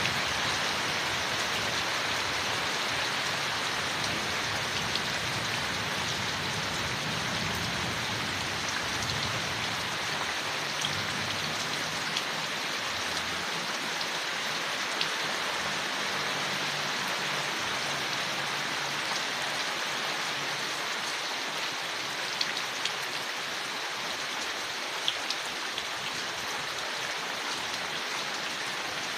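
Steady rain falling on leaves, an even hiss with scattered sharper drop ticks.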